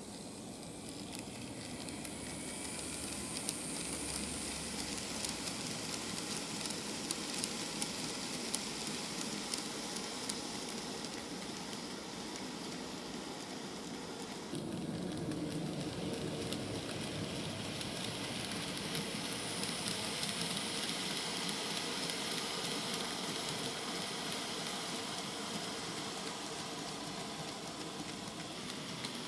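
N-gauge model train running on layout track: a KATO EF210 electric locomotive model hauling open wagons, with a steady rolling hiss and motor whir and light clicks of the wheels over rail joints. The sound grows louder and fuller about halfway through.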